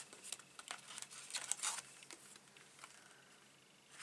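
Light clicks and rustles from hands sorting through small craft items, bunched in the first two seconds and fainter after.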